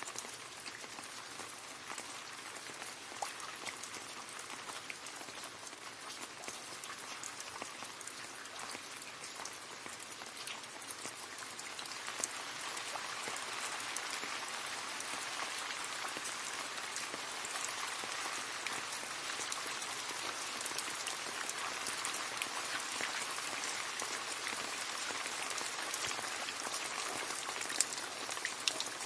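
Steady rain falling and splashing into a puddle, a dense patter of many small drop impacts; it grows a little heavier about twelve seconds in.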